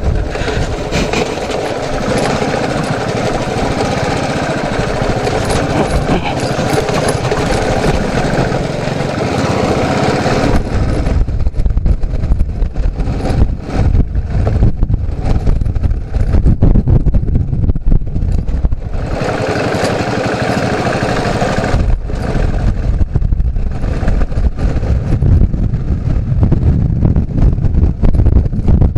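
Motorcycle engine running under way, with road noise and low wind buffeting on the microphone. The engine and road noise are plainest for the first ten seconds and again for a few seconds past the middle; the low wind rumble dominates the rest.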